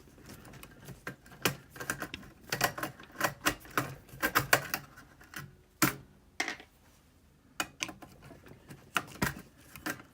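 Irregular clicks and taps of a screwdriver, screws and small metal and plastic parts being handled while a door operator's circuit-board housing is taken apart.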